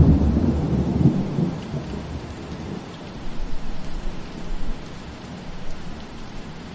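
Steady rain falling, with a low thunder rumble that fades away about a second in.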